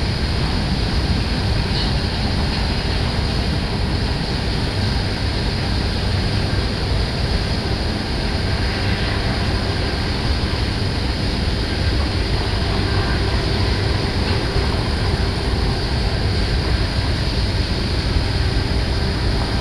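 A long freight train of autoracks and boxcars rolling past, a steady rumble with no break.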